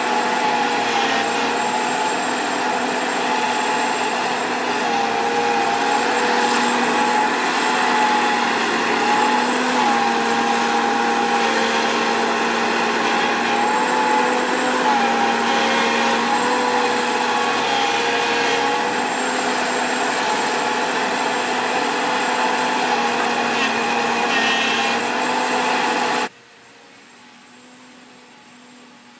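Diesel engine of heavy earthmoving machinery running steadily under load, its pitch rising and falling slightly. About 26 seconds in, the sound drops suddenly to a much quieter hum at the same pitch.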